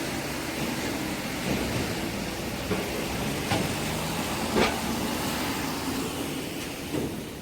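Vehicles running as they drive onto a ferry, a steady rumble of engine and road noise with two sharp knocks about a second apart near the middle.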